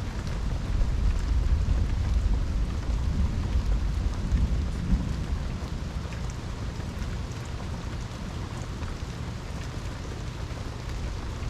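Steady rain with scattered drops ticking, and a low rumble of thunder that builds early on and fades away about halfway through.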